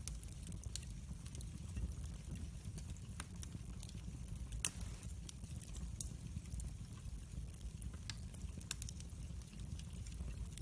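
Wood fire crackling: scattered sharp pops over a steady low rumble, with one louder pop about halfway through.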